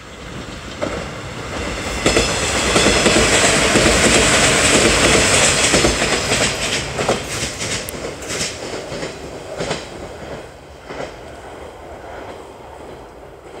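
JR 113 series electric train passing close by: its running noise builds as it approaches and is loudest a few seconds in, then the wheels clack over rail joints in a run of sharp clicks as the cars go past and the sound fades away.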